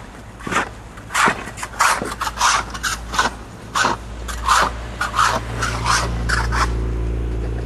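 Boots crunching through snow, about two steps a second. A low engine hum comes up about halfway through.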